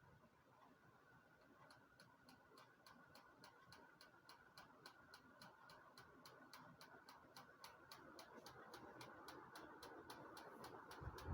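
Loren Sid Tulitha Sprint ceiling fan running with a faint hum. From about two seconds in, a regular tick comes three to four times a second and slowly grows louder.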